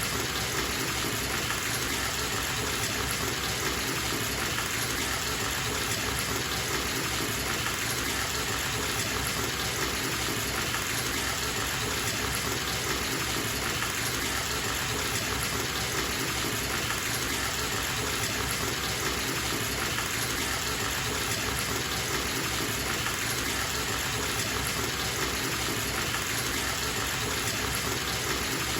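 Water running steadily from a bathtub tap into a filling tub, a constant even splashing gush.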